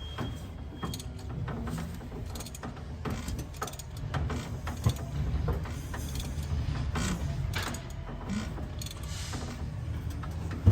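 Irregular mechanical clicks, knocks and rattles of tools and metal parts on a Ford 351 Windsor's top end, as the engine is turned over to bring the exhaust pushrod up for setting intake valve lash.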